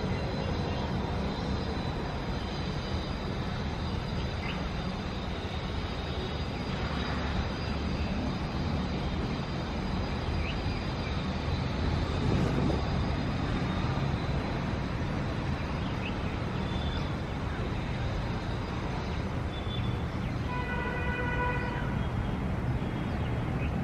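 City traffic ambience: a steady low rumble of road traffic, with a few faint short chirps and, near the end, a steady tone with overtones lasting about two seconds.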